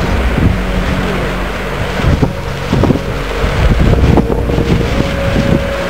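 Wind buffeting the microphone, with a few knocks and a faint steady hum over the second half.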